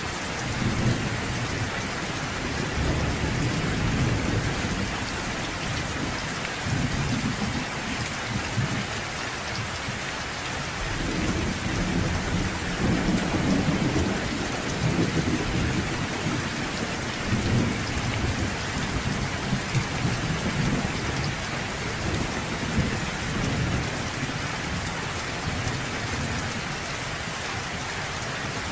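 Steady rain falling, with low rolls of distant thunder rumbling underneath that swell and fade several times.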